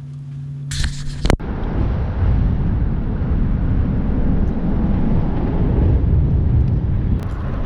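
Fishing boat running across the lake: a loud, steady rumble of wind buffeting the microphone over the motor and water noise. It is preceded in the first second by a steady motor hum and a short hiss.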